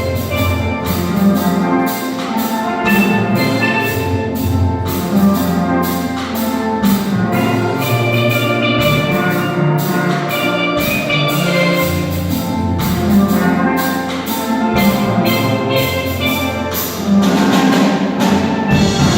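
Steel drum ensemble playing an upbeat tune in a steady rhythm of struck, ringing pans over a bass line, swelling louder near the end.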